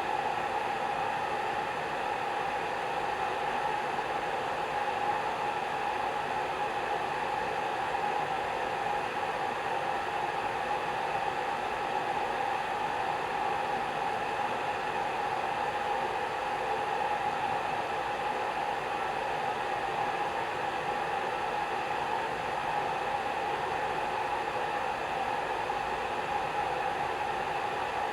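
Hair dryer running steadily, a constant airy rush with a faint steady whine from the fan motor.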